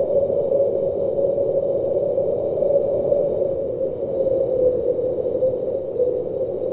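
Steady blizzard wind: a continuous rushing noise, concentrated in a narrow band that wavers slightly in pitch, with no gusts breaking off and no thunder.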